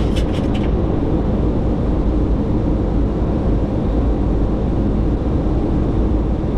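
Steady flight-deck noise of a Boeing 737-800 in flight: a constant low rumble and rush of airflow and engines.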